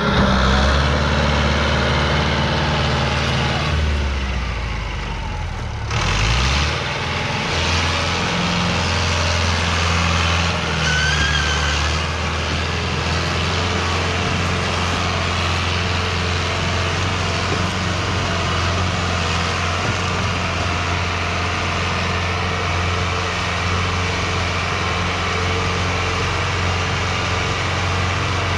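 A Fiat 640 tractor's four-cylinder diesel engine runs steadily while it works to pull a loaded sugarcane trolley. The engine sound drops off for a couple of seconds about four seconds in, then picks back up and holds steady.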